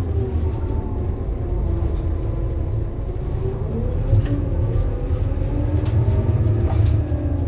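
Scania K230UB bus's diesel engine running under a deep rumble. Its pitch falls over the first second or so, then climbs twice with a dip between, as the ZF Ecomat automatic gearbox shifts while the bus pulls away. A few light clicks or rattles come through about four and seven seconds in.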